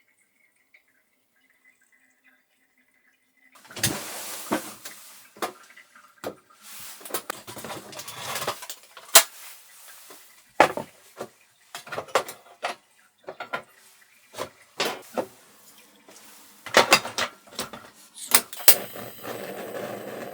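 Close-up handling sounds: after about three and a half seconds of near silence, a run of sharp clicks and knocks with rustling, splashy hiss between them, like small objects being moved and set down.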